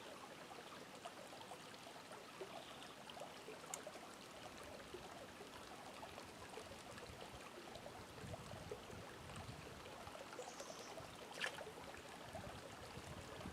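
Small, shallow creek flowing and trickling, faint and steady, with a couple of light clicks or taps, the clearest about eleven seconds in.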